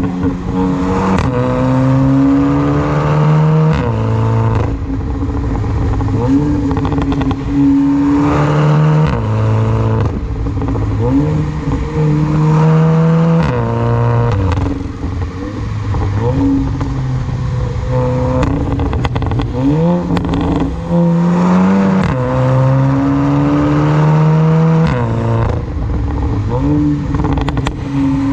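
Tuned VW Golf 7 GTI's turbocharged 2.0-litre four-cylinder under hard acceleration, its pitch climbing and then dropping back at each gearshift several times over, with short crackles and pops from the tuned overrun fuel cut-off.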